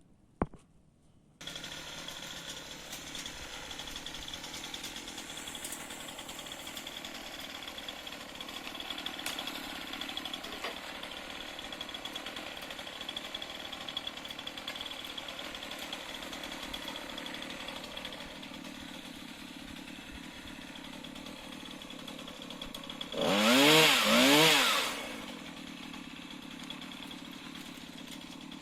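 Light one-handed chainsaw running steadily at a distance while pruning tree branches, then revved up hard twice, its pitch rising and falling each time, about three quarters of the way through before settling back. It starts after a second or so of near silence.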